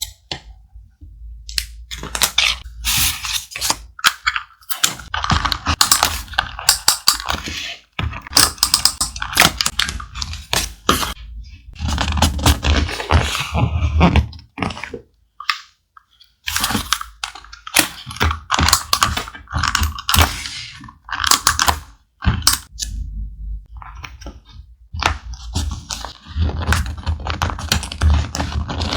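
Thick paper being handled close up for vintage journal collage: rustling, crinkling and tapping in stops and starts, with brief pauses.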